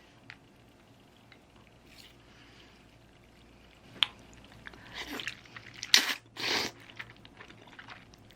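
Someone eating cold kalguksu soba noodles: a sharp click about four seconds in, then short wet slurping and chewing sounds, loudest in two bursts near the six-second mark.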